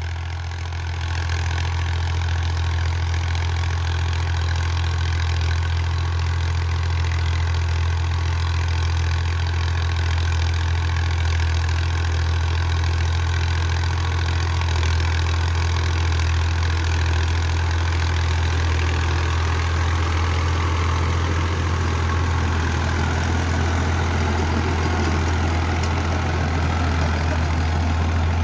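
Ghazi tractor's diesel engine running at a steady speed with a constant low hum, the sound holding even throughout.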